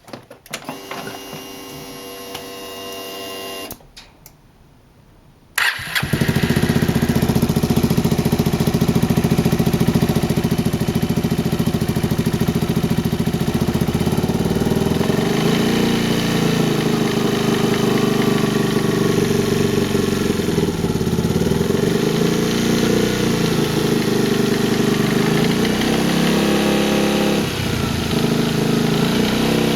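Yamaha Grand Majesty 250 scooter's single-cylinder engine: after a quieter hum and a short pause, it starts about five seconds in and runs steadily, its revs changing a few times. The owner is chasing a 'katakata' rattle from the engine at 3000–4000 rpm, which he cannot place between the cylinder head and the crankcase.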